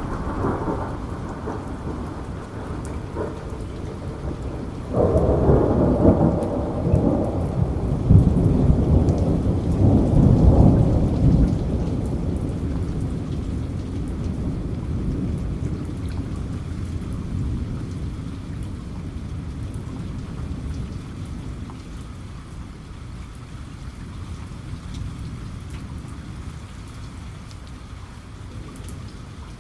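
Steady rain falling, with a roll of thunder that breaks suddenly about five seconds in, is loudest around ten seconds, and rumbles away slowly through the rest.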